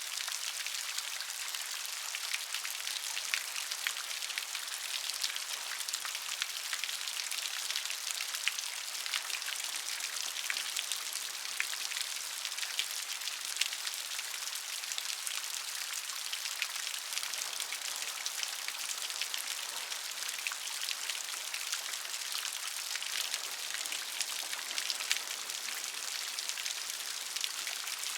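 Steady gentle rain: a constant hiss of many fine drops pattering on a surface, light and high-pitched, with no thunder.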